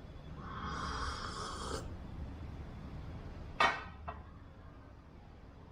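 A person slurping coffee from a cup: a noisy sucking slurp lasting about a second and a half. About two seconds later comes a sharp short knock, with a smaller one just after.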